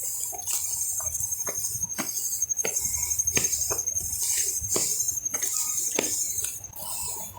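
Footsteps walking at an even pace, about one and a half steps a second, over a steady high insect trill that stops near the end.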